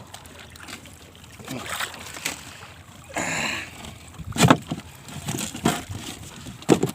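Handling noises aboard a small fishing boat: scattered knocks, the loudest about four and a half seconds in, and a short rushing noise about three seconds in, as a hook is baited with live shrimp.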